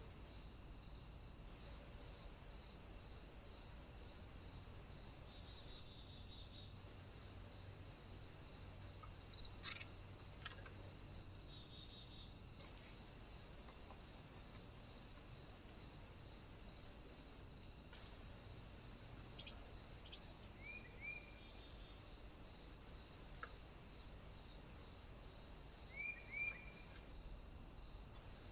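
Small birds at a feeder: a few short, faint chirps and a couple of sharp taps, over a steady high-pitched hiss with a faint pulse about twice a second.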